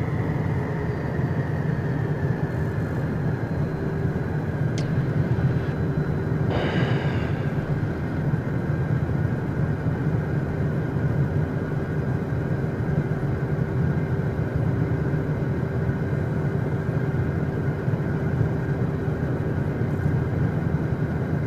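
The Beechcraft Premier 1A's twin Williams FJ44 turbofans running at taxi idle, heard inside the cockpit: a steady hum with a thin whine that drifts slowly lower in pitch. A short rush of noise comes about six and a half seconds in.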